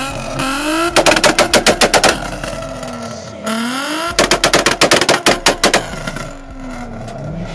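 A Volkswagen Golf's engine revved hard twice. Each time it climbs and bounces off the rev limiter in about a second of rapid cracks from the exhaust, like machine-gun fire, then falls back between the two pulls.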